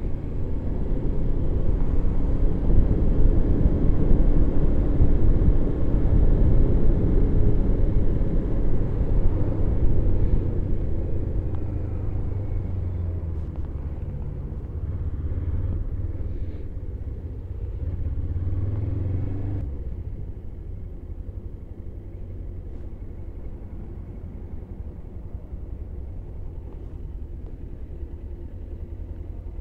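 Suzuki GS500E parallel-twin engine running under way with heavy rumble on the microphone, loudest in the first half. Just under twenty seconds in, the engine note swells briefly, then the sound drops sharply to a quieter low engine rumble as the bike slows.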